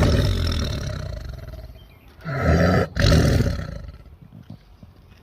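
Tiger roaring: a loud roar at the start that fades over about two seconds, then two more roars in quick succession about two and a half seconds in.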